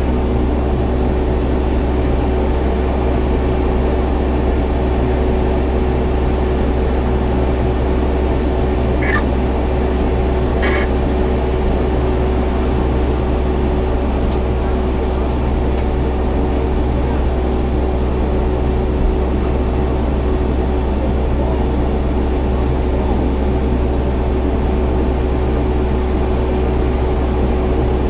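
Fire engine's engine running with a steady drone and hum, heard from inside the cab. Two brief high chirps come about nine and eleven seconds in.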